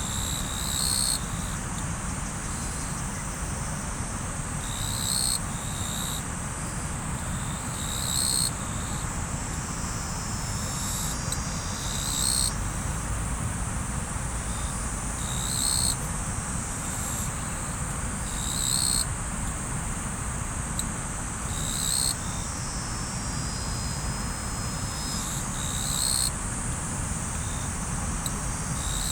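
Riverside ambience: running river water as a steady wash, under a continuous high insect chorus. A short high call repeats about every three to four seconds.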